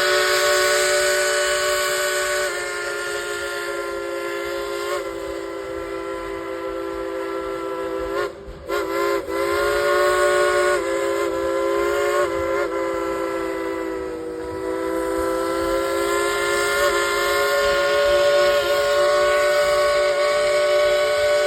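Steam locomotive whistle blowing long, sounding several notes at once as a chord. It breaks off briefly about eight seconds in and then sounds again, with the pitch sagging slightly now and then.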